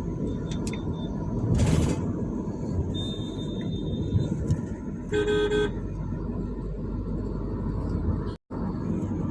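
Steady road and engine rumble of a car driving in traffic, with a vehicle horn honking once, briefly, about five seconds in. The sound cuts out for an instant near the end.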